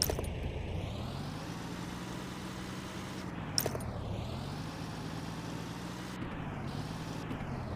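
A motor running with a steady hum whose pitch sinks and recovers again and again, as if it bogs under load and speeds back up. There are a sharp click at the start and another about three and a half seconds in.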